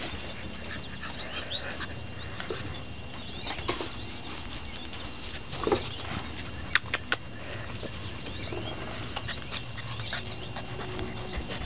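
Small birds chirping in short, high, repeated calls, a few at a time, with a couple of sharp clicks about halfway through.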